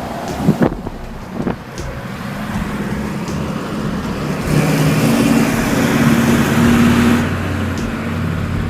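Road traffic with vehicle engines running. One engine grows louder about four and a half seconds in, with a hiss of tyres and wind, and eases off again near the seven-second mark.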